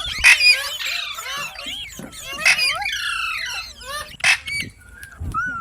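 Several Indian ringneck parakeets chattering, with overlapping whistled, gliding calls broken by a few loud harsh screeches.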